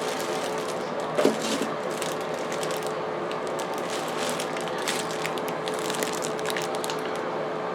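Paper and plastic packaging rustling and crinkling in irregular bursts as the bidet's booklets and parts are handled out of the box, over the steady hum of a bathroom exhaust fan.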